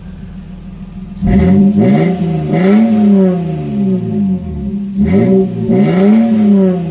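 Lexus GS300's 2JZ-GE inline-six, with its secondary muffler removed, idling and then revved in quick blips: the pitch climbs and falls several times in two rounds, much louder than the idle.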